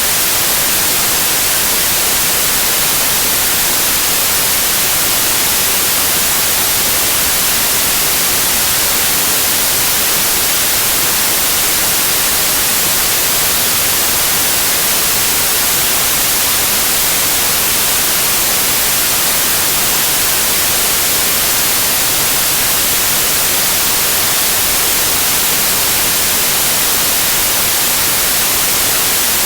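Steady white noise in the form of TV static: an even, unchanging hiss, brightest in the treble.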